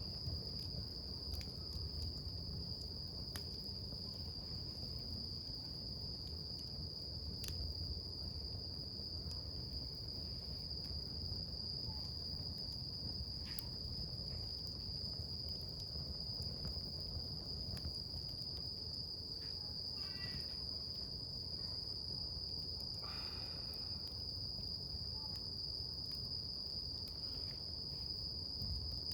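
Wood campfire crackling, with scattered sharp pops over a low, even burning noise. Insects keep up one unbroken, high, steady trill throughout.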